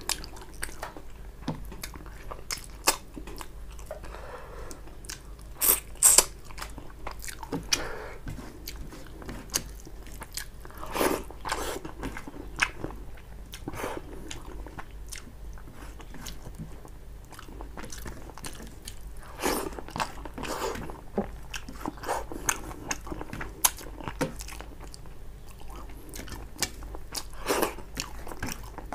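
Close-miked chewing and eating sounds of a person eating rice and fish curry by hand, with many short sharp clicks scattered through, the loudest a pair about six seconds in.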